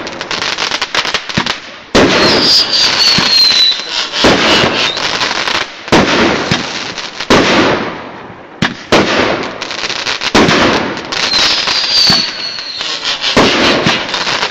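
Aerial fireworks going off in quick succession: a loud bang about every one to two seconds, each followed by a long crackling tail. Twice, a high falling whistle sounds over the bangs.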